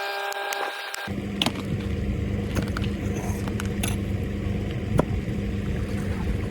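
A vehicle's engine running under load with a steady low drone, with occasional clicks and rattles. It comes in abruptly about a second in, replacing a steady high whine with regular ticking.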